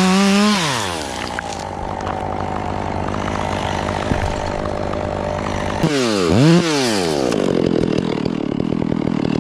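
Two-stroke chainsaw engine at full revs that drops to idle within the first second and idles steadily. About six seconds in it is blipped up and back down once, then it runs on at a rough, pulsing idle.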